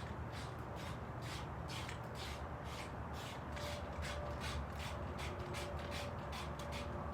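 A quick, uneven series of short scraping strokes, about three a second, over a steady low hum.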